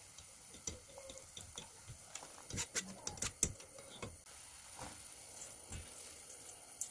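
Scattered light clicks and knocks, busiest about two and a half to three and a half seconds in.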